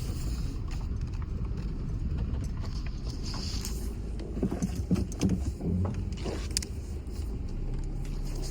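Vehicle driving slowly along a rutted dirt driveway, with a steady low rumble of engine and tyres. A cluster of knocks and rattles comes about four to six seconds in.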